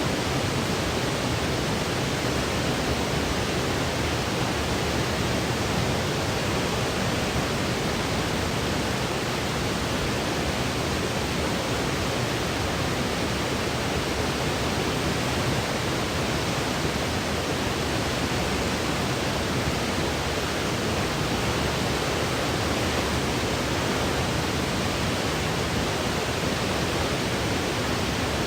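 Steady synthetic white noise, an even hiss that does not change, played as a sleep aid for babies.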